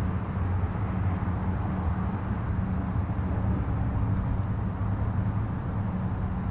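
Distant highway traffic: a steady, even rumble of tyres and engines with a low hum and no single vehicle standing out.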